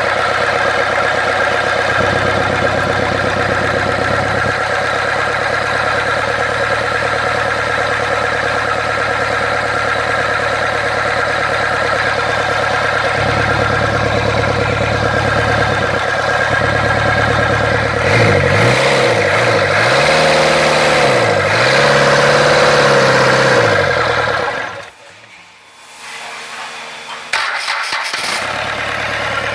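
Reconditioned Mitsubishi 4D32 four-cylinder diesel engine on a test run: it idles steadily, then is revved up and down several times. About 25 s in the sound drops away suddenly, and it comes back loud near the end.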